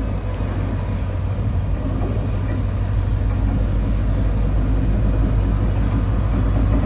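A train's diesel engine running steadily, with a low drone that grows slightly louder.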